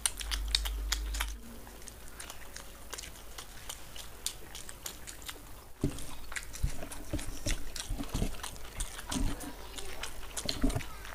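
Two people biting and chewing with wet lip smacks and mouth clicks: chicken satay eaten off skewers, then, after a cut about six seconds in, fried rice and chicken manchurian eaten by hand.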